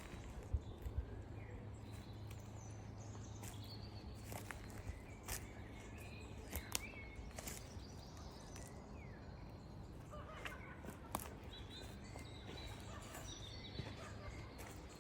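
Birds chirping with short calls now and then over steady outdoor background noise that has a low hum, with scattered sharp clicks.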